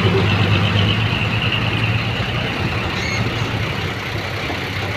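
Truck engine running steadily with a low hum, easing slightly in level.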